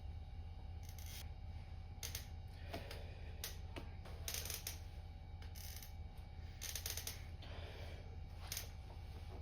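Irregular metallic clinks and short clattering bursts of gym equipment over a steady low hum.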